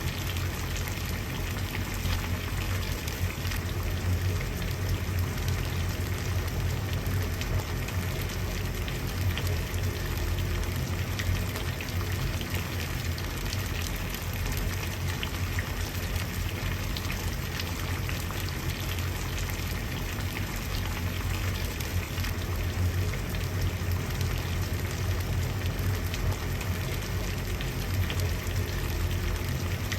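Water at a steady boil: continuous bubbling with fine crackles over a low rumble.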